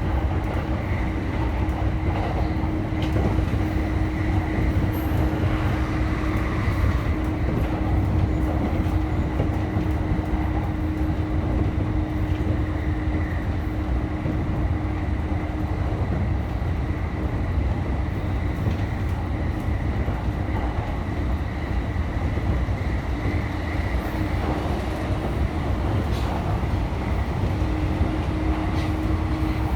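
Train running on rails at steady speed: a continuous low rumble with a steady hum.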